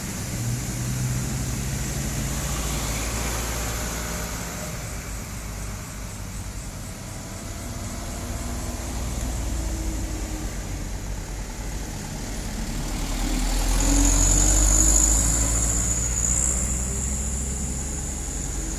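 Heavy loaded trailer truck's engine running as it climbs, a steady low rumble that grows louder and is loudest about three-quarters of the way through, with a high whine at its peak.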